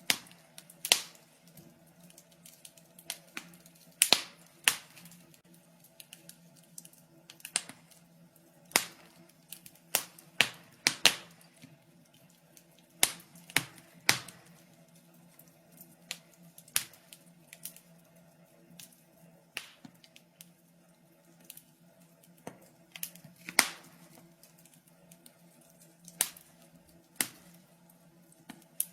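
Wood fire in a fireplace crackling: irregular sharp pops and snaps, a few much louder than the rest, over a faint steady low hum.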